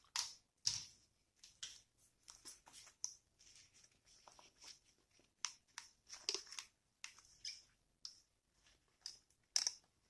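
Pliers working a piece of iron wire, bending and twisting it: an irregular string of small sharp metal clicks and scrapes, with louder ones about half a second in, around six seconds in, and near the end.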